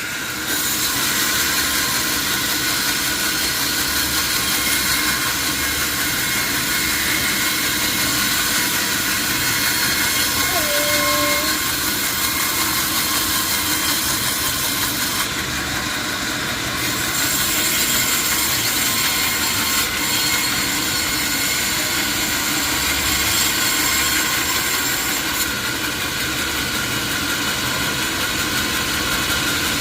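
Sawmill saw running, a loud steady hiss with a faint steady whine through it.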